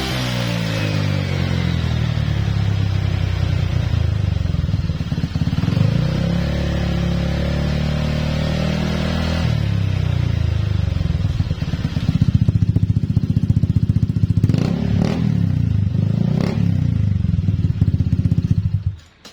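Honda PCX 160's single-cylinder engine through a 3tech Ronin Hanzo aftermarket exhaust, its revs falling and rising a few times, then running steadily and rough before the engine is switched off near the end. The owner suspects the exhaust sounds raspy because its glasswool packing has burnt out.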